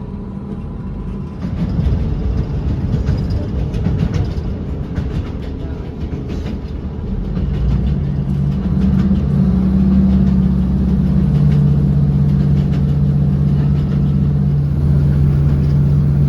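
Class 156 diesel multiple unit running, with its diesel engine drone and scattered clicks in the first half. About halfway through the engine note grows louder and settles into a steady low drone.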